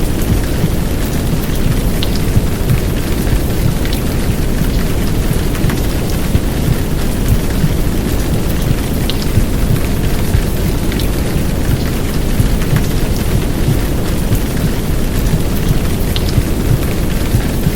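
Heavy downpour rain mixed with a deep, muffled womb-sound rumble, forming a steady, dense wash heaviest in the low end, with a few faint drip ticks over it.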